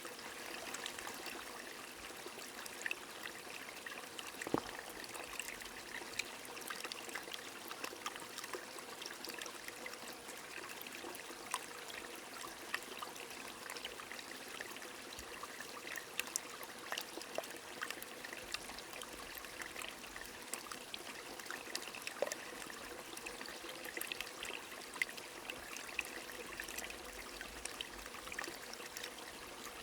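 Steady rain falling with a small stream trickling, with many small, irregular drop ticks over an even wash of running water.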